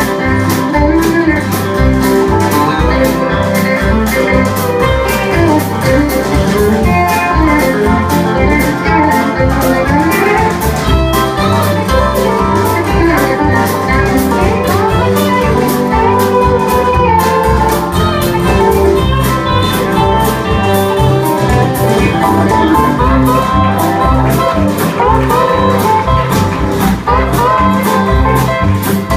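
Country-blues band playing an instrumental break: a lead guitar solo with bent, gliding notes over a steady bass and drum beat.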